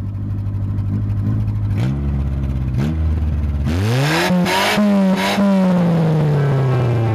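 Honda City's engine idling, then given two quick throttle blips and revved hard. It is held high with two brief breaks and then slowly falls back toward idle.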